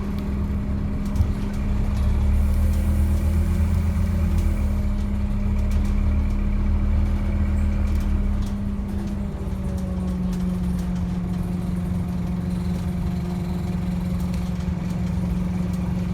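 Scania N230UD double-decker bus's diesel engine running steadily. Its deep low rumble eases about nine seconds in, leaving a steady hum.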